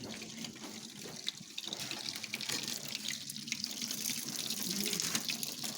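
Core drill boring a hole through a wall: a steady gritty hiss with many small crackling ticks.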